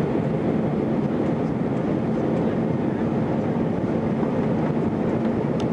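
Steady engine and airflow noise of an Airbus A320 in flight, heard from inside the cabin: an even rush with a low steady hum.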